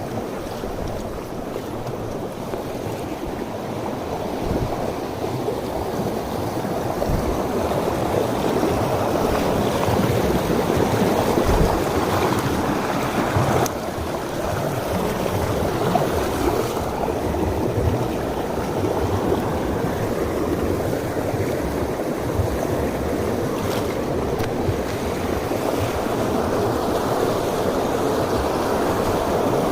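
Mountain stream water rushing over rocks: a steady, even rush that grows a little louder after the first several seconds.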